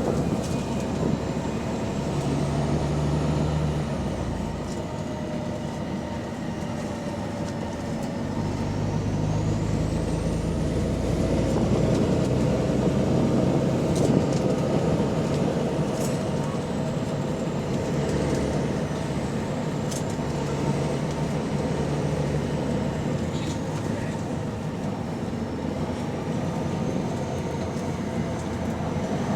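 Volvo B9TL double-decker bus with a ZF Ecolife automatic gearbox, heard on board, its engine with a leaking exhaust running through pulling away and easing off, the engine note rising and falling over several seconds. A faint high whine glides up and down, and there are a few sharp clicks.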